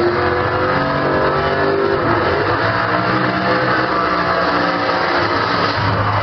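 Recorded car engine revving, its pitch sliding up and down, played back over loudspeakers.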